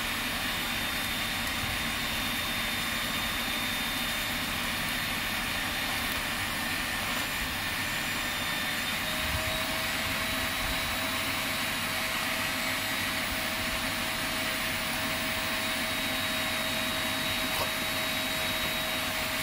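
Steady blowing noise from a running machine, with a faint high whine throughout and a lower steady tone joining about nine seconds in.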